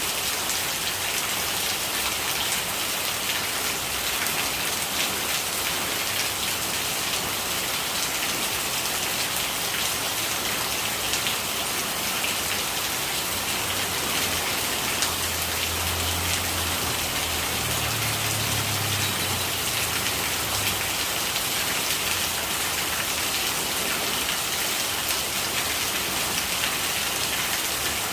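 Steady rain falling, a dense patter of drops on surfaces. A low rumble comes in for several seconds about halfway through.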